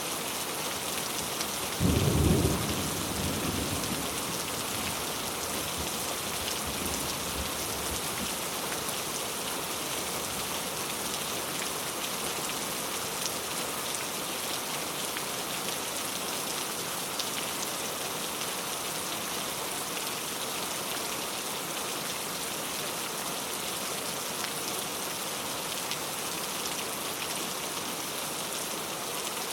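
Very heavy rain falling steadily. About two seconds in, a sudden low thunderclap, rumbling away over the next few seconds.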